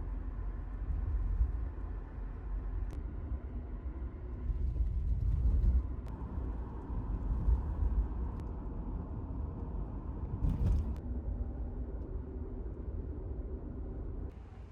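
Steady low rumble of a car in motion, with a few sharp clicks and a brief louder rush about ten seconds in.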